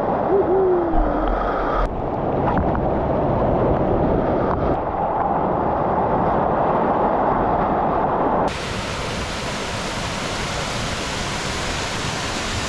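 Waterfall or rushing stream water, a loud steady rushing noise. About eight and a half seconds in it cuts abruptly to a brighter, hissier rush of water.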